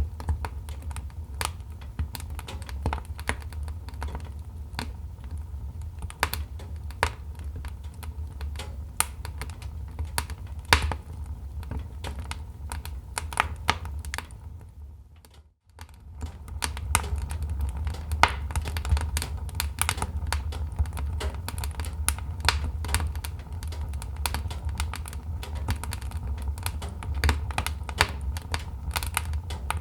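Wood fire crackling: irregular sharp pops and snaps over a steady low rumble. The sound fades out almost to nothing about halfway through, then comes back.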